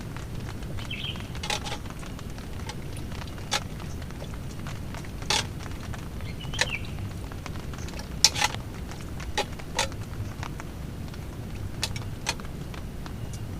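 Steady rain and wind noise, with about eight short sharp clicks and knocks scattered through it, like small objects being handled.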